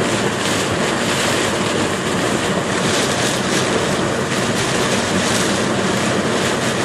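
Heavy rain and tyre spray from a car driving along a flooded road, a steady dense hiss heard from inside the cabin.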